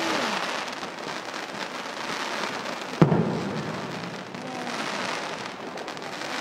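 Fireworks display: a dense crackle like heavy rain throughout, with one sharp bang about three seconds in.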